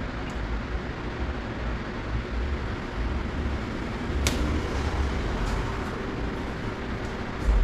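Electric hot-air blower running steadily, a fan-driven whir with a faint hum, as it heats a motorcycle tank badge to soften the adhesive tape behind it. A sharp click about four seconds in.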